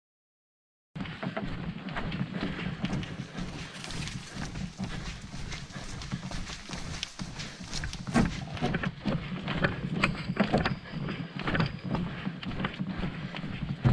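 Irregular clattering knocks and thuds over a steady low rumble, starting abruptly about a second in.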